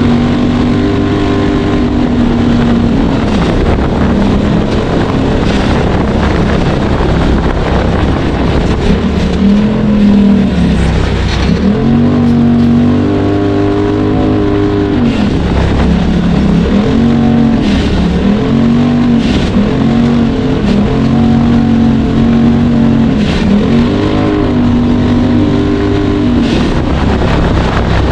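Off-road vehicle engine running hard, revving up and down again and again, with a few short knocks along the way.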